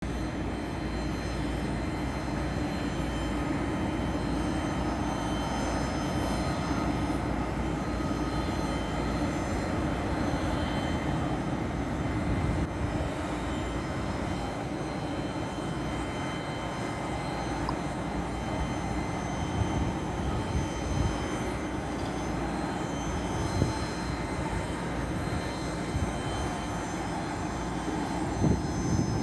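Airbus A320's jet engines running steadily: a continuous rushing roar with a low rumble and several thin steady whines.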